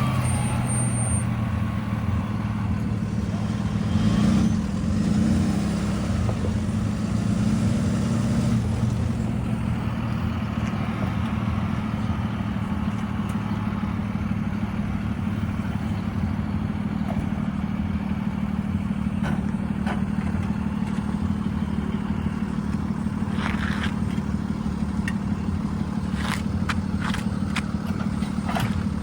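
Diesel engines of heavy asphalt-paving machinery running steadily, with a few sharp metallic clanks near the end.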